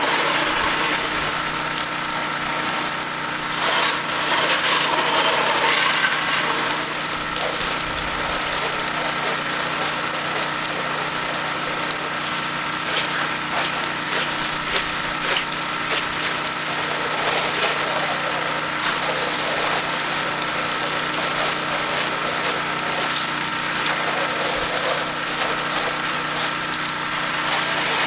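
Gas-engine pressure washer running steadily, with the hiss of a water spray over its constant engine drone.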